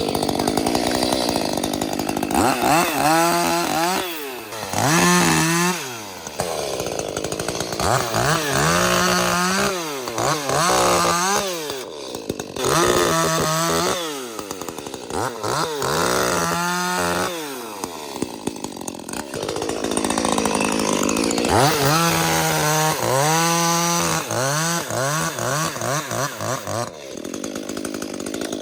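Ported 30cc Echo CS-310 chainsaw repeatedly revving up and dropping back, cutting brush and limbs, its pitch rising and falling many times with a few short steadier stretches at high revs.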